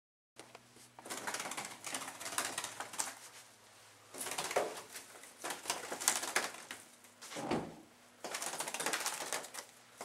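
A small bird fluttering against a window pane: rapid wingbeats and taps on the glass in several bursts of a second or so, with short pauses between.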